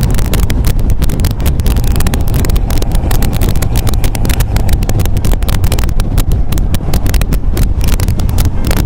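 MGA roadster's four-cylinder engine running steadily at road speed, with heavy wind buffeting on the microphone.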